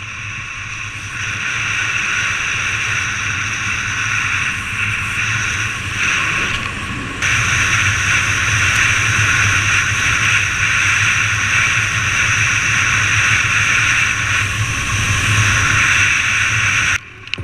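Riding sound from a motorbike on the road: steady wind rush over a low engine hum. It steps louder about a second in and again about seven seconds in, then cuts off suddenly near the end.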